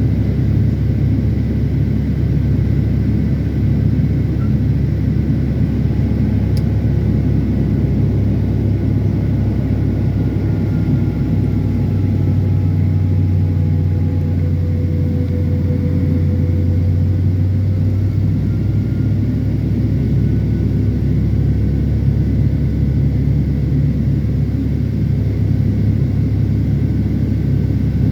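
Cabin noise of a Boeing 757-300 jetliner in flight: a steady, loud low rumble of the jet engines and rushing air, with faint whining tones that drift slowly in pitch.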